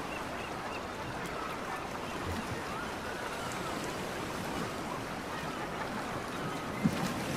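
Steady seaside ambience: a continuous hiss of water and wind, with faint distant voices and one short thump near the end.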